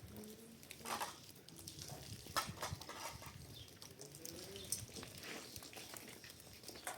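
Faint scattered knocks and clicks, with a few brief, faint animal calls.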